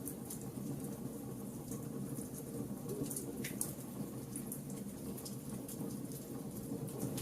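Wood fire burning: a steady low rush of flames with irregular sharp crackles and pops from the burning wood, and a brief falling whistle about three and a half seconds in.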